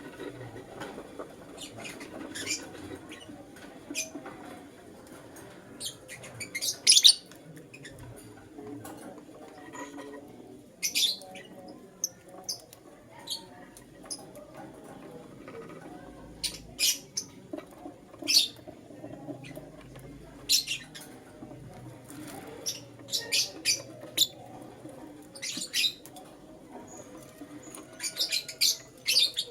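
Lovebirds giving short, sharp, high-pitched chirps in scattered clusters with quiet gaps between them. The loudest burst comes about seven seconds in, and the chirps run in quicker succession near the end.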